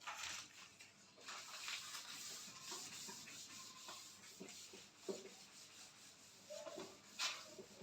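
Faint scratching of handwriting: a writing tool rubbing across the writing surface in short, uneven strokes as the questions are written out.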